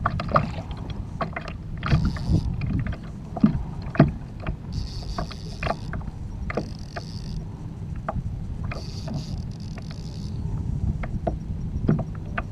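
Kayak on the water: water slapping against the hull with scattered short knocks and clacks of gear on the hull, and a few short spells of high hissing whir, each about a second long.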